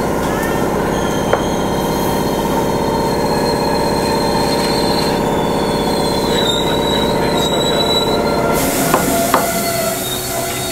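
Tobu Railway two-car electric train running on the Kiryu Line, with steady motor and wheel noise and a thin, high wheel squeal. About nine seconds in the running note drops away, a hiss rises and there are a couple of sharp clicks.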